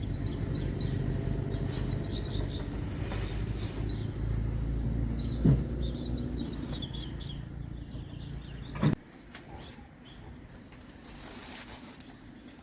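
An engine running steadily, cutting out abruptly with a knock about nine seconds in, with birds chirping in the background.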